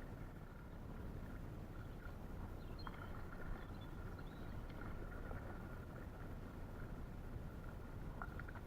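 Gumotex Scout inflatable canoe being paddled on a river: a low steady wash of water and air noise with a couple of soft paddle knocks. A few faint high chirps come about three seconds in.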